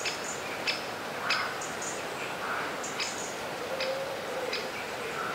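Small birds chirping in the background: short, high chirps repeated irregularly, several times a second at most.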